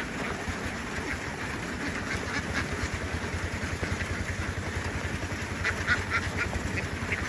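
A large flock of ducks quacking, over a small engine chugging steadily that comes up more strongly about two seconds in.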